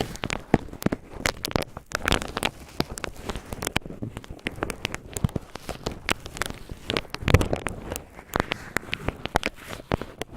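Cotton swabs being crinkled and rubbed, giving a dense, irregular run of crackles and scratchy clicks.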